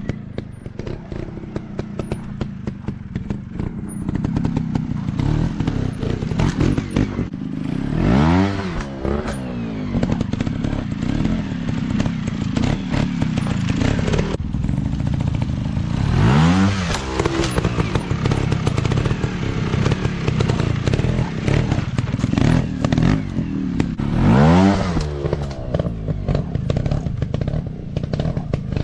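Dirt bike engine running under load over rough ground, with a dense rattle of sharp clicks throughout. Three times, about eight seconds apart, it revs up and drops back.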